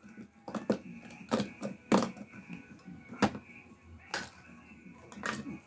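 Irregular sharp clicks and taps of small tools and metal parts handled on a workbench while desoldering a Wahl Senior clipper motor.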